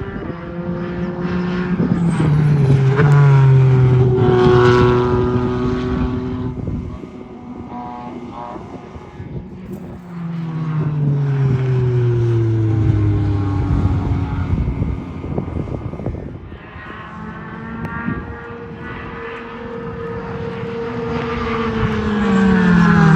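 Race cars going past at speed on a circuit, one after another, each engine note dropping in pitch as it goes by. About three pass-bys, with a lull between them.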